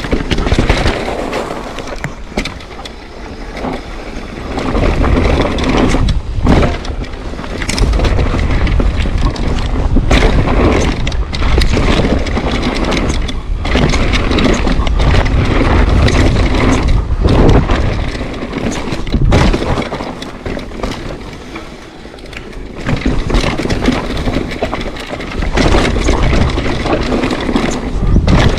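Mountain bike riding down a rough trail: tyres crunching and scraping over rock and gravel, with the bike rattling and knocking over the bumps and wind rumbling on the microphone.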